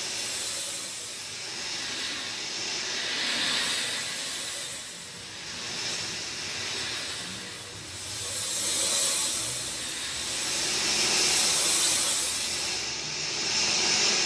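Steady rain falling, a dense hiss that swells and eases every few seconds.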